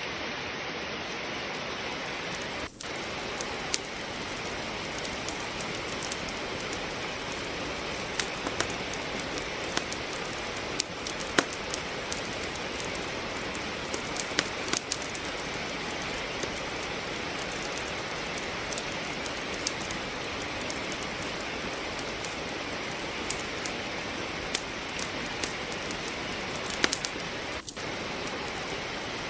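Steady rain falling, with the wood logs of a fireplace crackling over it in scattered sharp pops.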